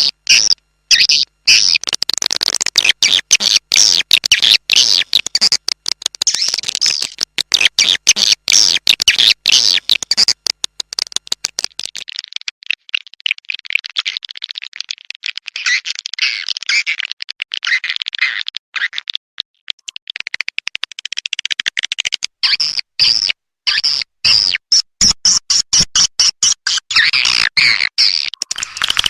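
Swiftlet lure call: a dense, fast twittering chatter of swiftlet chirps, the 'calling' track played in swiftlet nest houses to draw birds in to roost.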